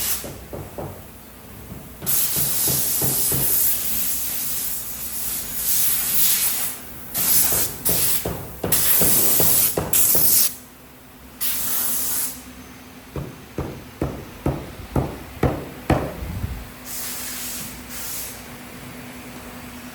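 Compressed air hissing in repeated bursts of a second or two over a steady machine hum, with a run of sharp irregular knocks in a lull about two-thirds of the way through.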